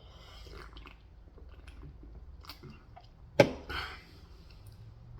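Close-up chewing and biting of Korean fried chicken, with soft wet mouth clicks and crunches. One sharp, louder click comes about three and a half seconds in.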